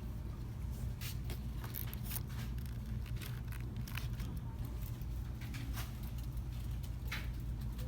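Shop background: a steady low hum with scattered light clicks and rustles.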